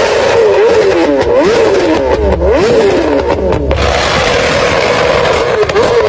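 Sport motorcycle engine revved hard against the rev limiter, its pitch climbing and snapping back down again and again, a few times a second.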